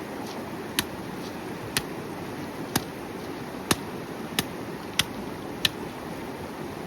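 Firewood being chopped: seven sharp strikes, about one a second, over a steady background rush.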